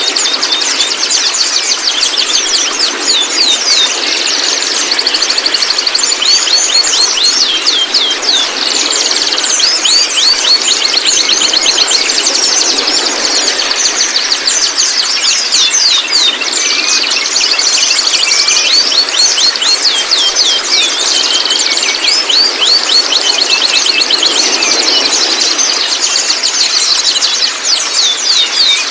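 White-rumped shama giving its 'trotol' song: continuous fast rattling strings of sharp, downward-sweeping notes, over a steady high-pitched tone. This chattering stutter is the call used to stir other shamas into singing.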